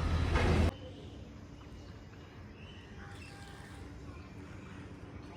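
A loud outdoor noise cuts off abruptly under a second in. Quiet rural ambience follows, with a few faint, short bird calls.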